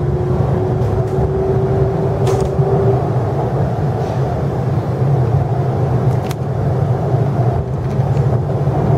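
Interior running noise of an MTR East Rail Line R-train moving alongside a station platform: a steady rumble of wheels on rail and the car body, with a faint rising whine that fades out about three seconds in.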